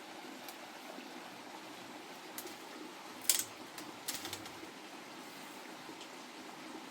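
Steady rush of flowing water, with one sharp click a little over three seconds in and a few lighter clicks about a second later.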